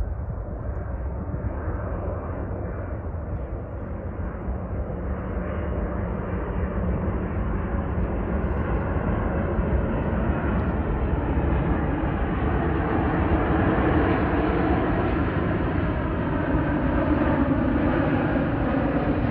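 Jet engine noise of an arriving airliner, a steady rushing sound that grows slowly louder as the aircraft comes closer.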